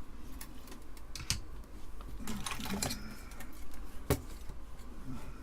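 Irregular small clicks and taps of tools and parts being handled on an electronics workbench, with one sharp click about four seconds in.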